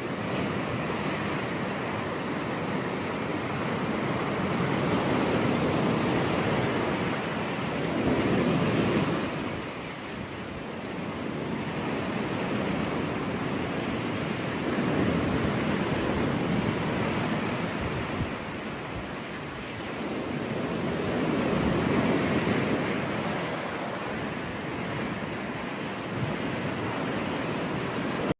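Ocean surf breaking on a beach, a steady wash of noise that swells and eases as each wave comes in, with some wind on the microphone.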